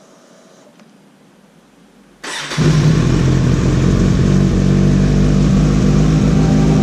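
A motorcycle engine starts about two seconds in, catching almost at once, then runs steadily and loudly.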